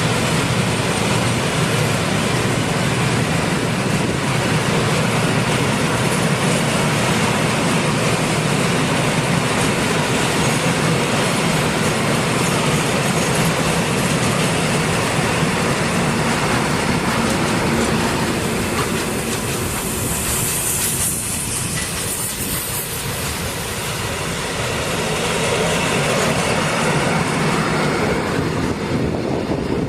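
A train running along the track, a steady loud rumble and clatter of wheels on rails. It eases somewhat about two-thirds through, where a brief high-pitched hiss or squeal rises above it.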